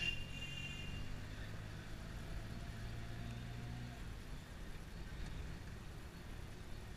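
Taxi engine running as the car drives through city traffic, heard from inside the cab as a steady low drone. A short, high-pitched beep sounds right at the start.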